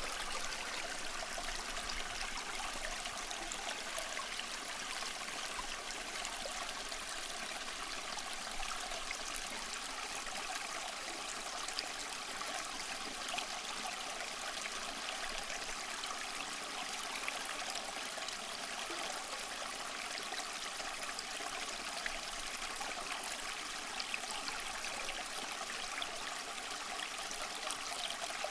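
Water running steadily at the partly frozen Tiffany Falls, an even, unbroken rush of water.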